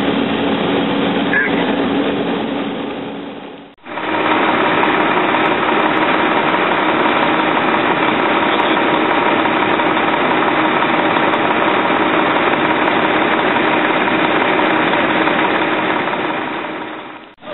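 Fire truck's engine running steadily. It briefly fades out about four seconds in, comes back, and fades again near the end.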